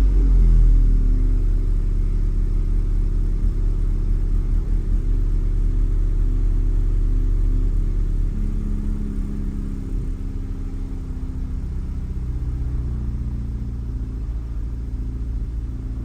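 Honda Civic Type R's turbocharged four-cylinder engine idling steadily, settling a little quieter about ten seconds in. It sits on a stiffer aftermarket rear engine mount, which makes the car vibrate more and seem a little louder at idle.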